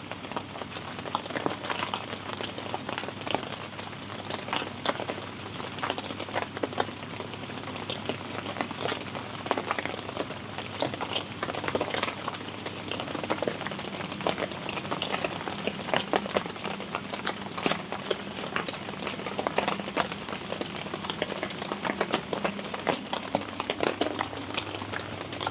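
Steady rain falling on a tent, heard from inside: a constant wash of rain with many individual drops ticking sharply on the fabric. A faint steady low hum runs underneath.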